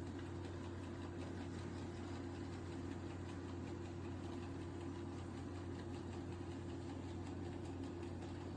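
ILIFE A12 Pro robot vacuum running as it drives back to its dock, a steady low hum from its suction motor and brushes.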